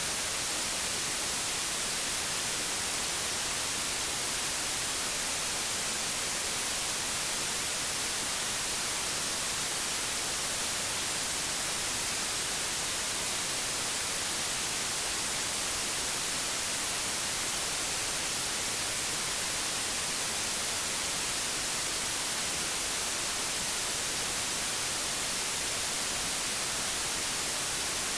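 Analog television static: a steady, unbroken hiss, brightest in the high end.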